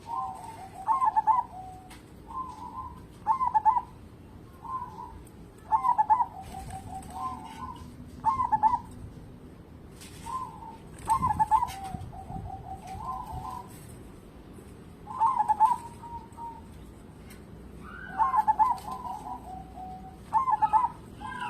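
Zebra dove (perkutut) singing: repeated phrases of quick, staccato coos, one phrase every one to three seconds.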